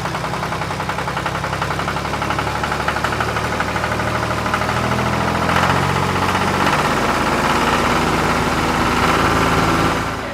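Small engine of a homemade mini tractor running steadily with a fast, even firing beat. It grows a little louder about halfway through and fades out near the end.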